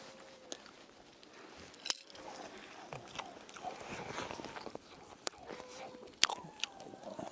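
Eating sounds: a man bites grilled sandfish off a metal skewer and chews it. Several sharp clicks come through, the loudest a little after six seconds in.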